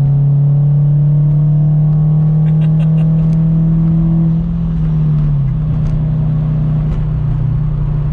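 Supercharged Subaru BRZ's flat-four engine, with catless header and single-exit exhaust, heard from inside the cabin, running loud under acceleration, its note slowly climbing. The note dips briefly about four and a half seconds in, then carries on.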